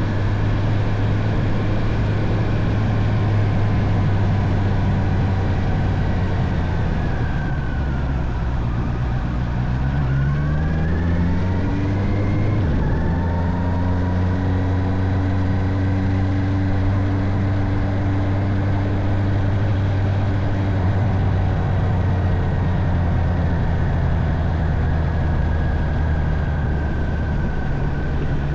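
Honda CB650R's inline-four engine running at cruising revs over a steady rush of wind. About seven seconds in the revs drop for a couple of seconds, then climb again. After a brief break in the note they settle back to a steady cruise.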